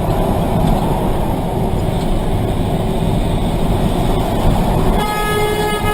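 Loud, steady rumble of a vehicle on the move. About five seconds in it cuts abruptly to a train horn sounding a steady, many-toned blast.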